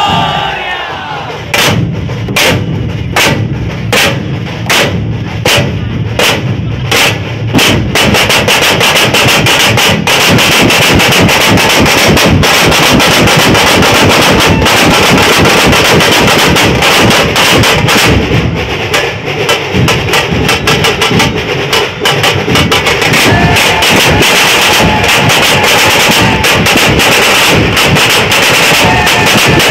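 Dhol-tasha drum troupe: heavy dhol strikes come singly, about every two-thirds of a second, then after about eight seconds the whole group breaks into fast, dense drumming with a steady rattle of tashas over it.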